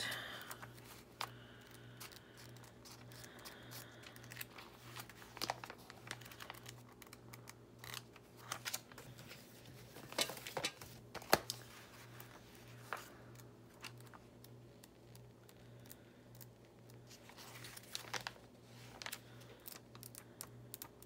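Magazine pages being turned and handled, with soft paper rustles and crinkles and scattered light clicks, over a steady low hum.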